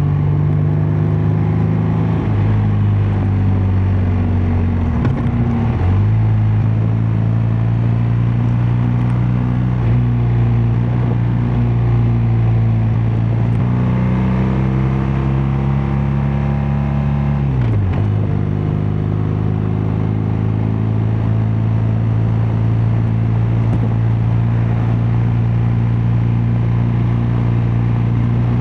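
BMW R12 nineT's boxer twin engine and exhaust under way at a steady cruise. The engine note dips briefly about five seconds in; later it climbs slowly, then drops sharply, as with an upshift, and settles.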